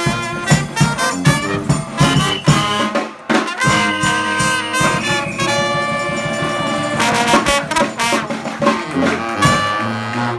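New Orleans-style brass band playing live: trumpets and trombone holding and moving between notes over a steady drum beat.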